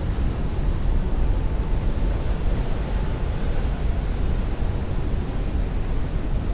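Heavy rain beating on a window while strong wind rushes outside: a steady, dense noise, heavy in the lows, swelling slightly midway.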